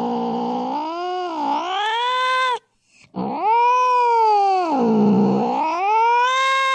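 Cat yowling in two long, drawn-out wails: the first ends about two and a half seconds in, and after a short break the second begins, each sliding down in pitch and climbing back up.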